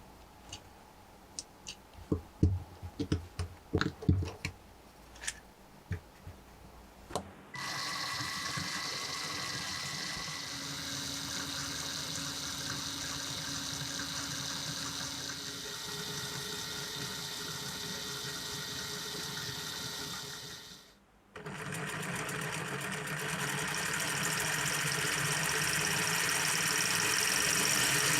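Lego Technic pieces clicking sharply several times. About a quarter of the way in, a motor-driven Lego single-cylinder engine model starts a steady mechanical whir. It cuts out briefly about three quarters of the way in, then runs again, growing slightly louder.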